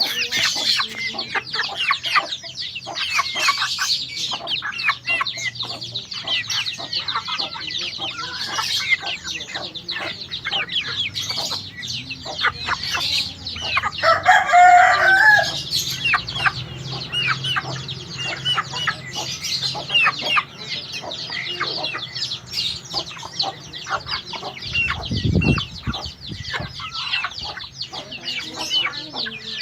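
White-eye (pleci) singing a fast, high, chattering twitter without pause. A rooster crows once about halfway through.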